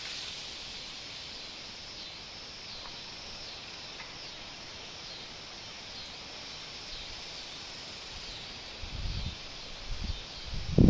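Rural outdoor ambience: a steady high insect buzz with faint, repeated short chirps. A few low rumbles come in near the end.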